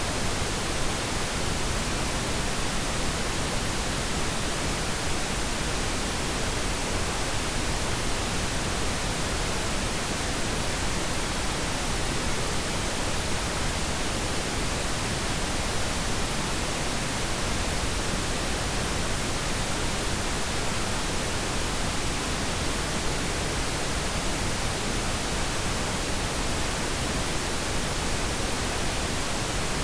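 Steady, unchanging pink noise: an even hiss spread across all pitches, with no events or variation.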